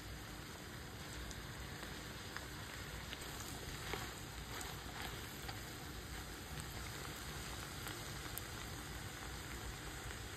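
Diced sausage, beef and bell peppers frying in a discada pan, a steady sizzle with scattered small pops and crackles.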